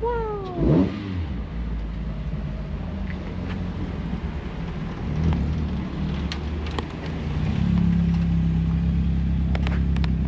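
Car engine whose revs drop quickly in the first second, with a brief loud burst as they fall, then running at steady revs, getting louder and holding a steady tone from about three-quarters of the way through.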